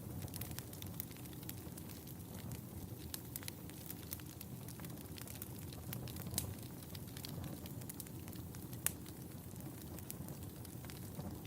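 Wood fire burning in a fireplace with a steady low rumble and scattered sharp crackles and pops, the loudest pops at about six and nine seconds in.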